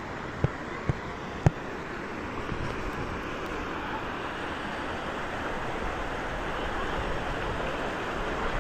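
Steady rush of flowing water, growing slightly louder, with three short knocks in the first second and a half.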